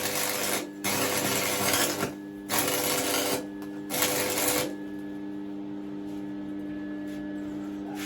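Stick welder arc crackling and spitting in four short bursts during the first five seconds, as a weld is built up on thin steel. A steady low electrical hum runs underneath.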